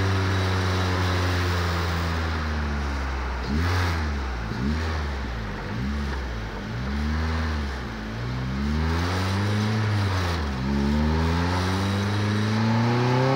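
Vauxhall C16SE 1.6-litre four-cylinder engine in a classic Mini, heard from inside the car: the revs ease down steadily, then rise and fall in a string of short swells, and near the end climb steadily as the car pulls away.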